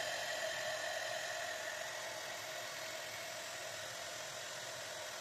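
Handheld blow dryer running with a steady whir, heating mustache wax until it softens and turns shiny.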